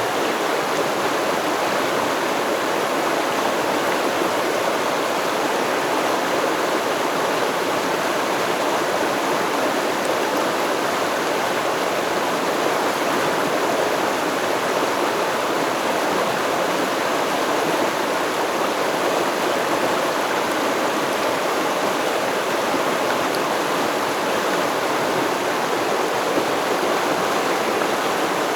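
A river stream flowing over rocks, a steady, unbroken rush of water.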